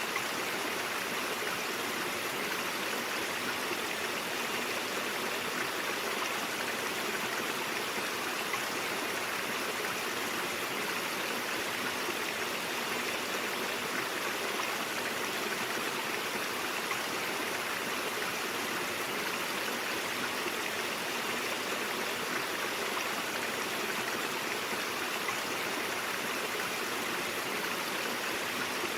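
Mountain stream running over rocks: a steady, even rush of flowing water with no breaks.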